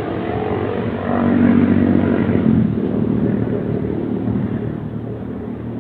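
A motor vehicle engine passing by, growing louder to a peak about two seconds in and then slowly fading away.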